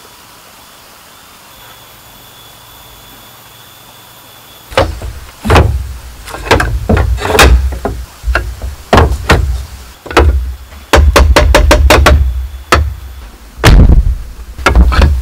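Bamboo being struck in construction work: after a few seconds of quiet, irregular heavy knocks and thuds start about five seconds in and carry on loudly in uneven clusters.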